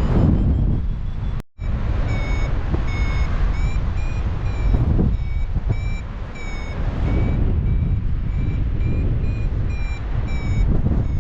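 Paraglider variometer beeping in a steady run of short tones that step up and down in pitch, the climb signal of a glider rising in lift, over heavy wind rush on the microphone. The sound drops out briefly about a second and a half in.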